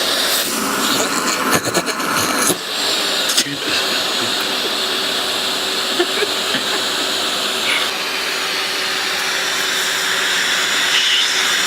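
Vacuum cleaner running steadily, a constant hum under its airflow noise, with a few short knocks or bumps in the first few seconds.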